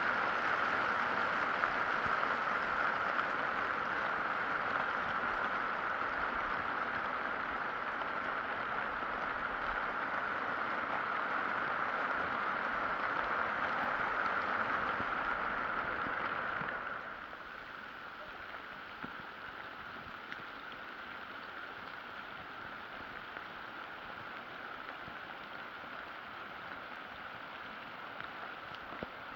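Steady rain, a dense hiss that drops suddenly to a lower level about seventeen seconds in.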